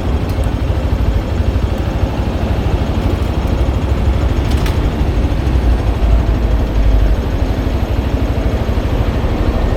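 Motorcycle riding on the road: a steady engine drone over a heavy low rumble, with one brief tick about four and a half seconds in.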